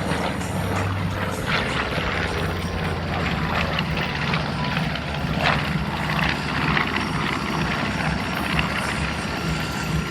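The twin Wright R-2600 radial engines and propellers of a North American B-25 Mitchell bomber, droning steadily and heavily during a low pass.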